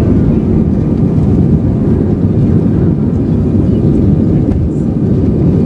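Airbus A320 engines and airflow heard from inside the passenger cabin during takeoff: a loud, steady low rumble with no change in level.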